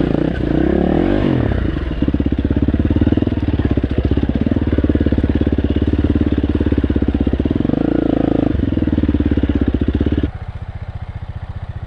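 Dirt bike engine running under throttle, its revs swinging up and down about a second in and rising briefly later. Near the end the throttle shuts off and the engine drops suddenly to a lumpy idle.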